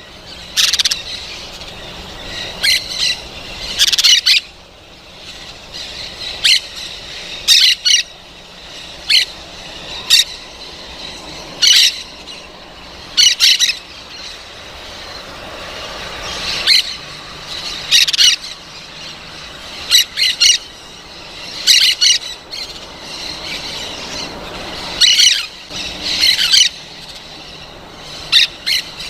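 Parrot squawking: short, harsh, high calls repeated about every one to two seconds, some in quick pairs.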